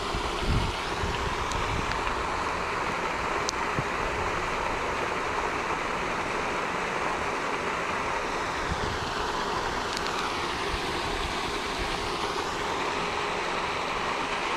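Steady splashing rush of a pond's water fountain spraying and falling back onto the water, with a faint whine that dips in pitch and rises again near the end.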